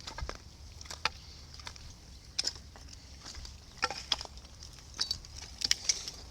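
Livestock moving about: irregular light clicks and knocks, scattered unevenly, over a low steady rumble.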